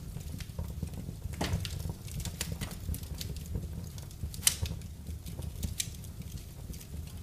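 Wood fire crackling in a fireplace: irregular sharp pops and snaps over a low, steady rumble of flame, with the loudest pop about four and a half seconds in.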